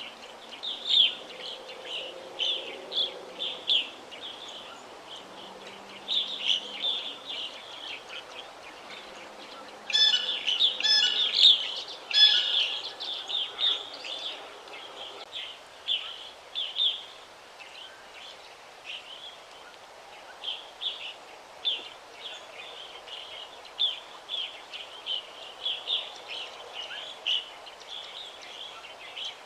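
Forest songbirds chirping and singing: short, high chirps repeat throughout over a steady background hiss. A louder, harsher call made of several layered tones comes about ten to twelve seconds in.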